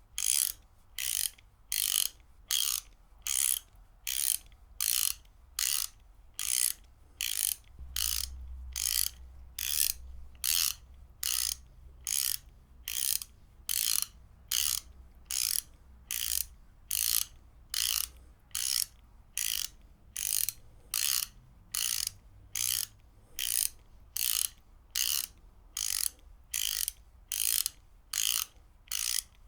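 Ratchet wrench being worked in steady, even strokes. Each stroke gives a short burst of pawl clicking, about one and a half strokes a second.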